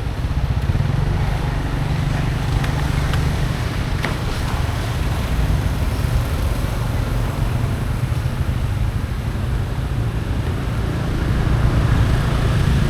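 Steady low rumble of motorcycle and road traffic running nearby.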